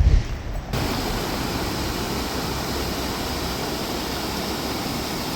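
Steady rushing noise of a high, fast-flowing river, starting abruptly less than a second in after a brief low thump.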